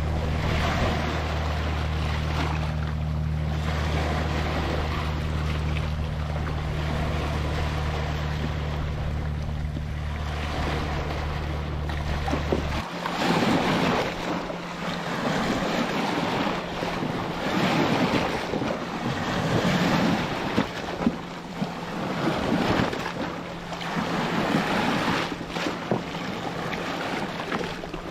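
Ocean surf washing on a beach, with wind buffeting the microphone. A steady low hum sits under the surf and cuts off suddenly about halfway through. After that the waves come in uneven surges.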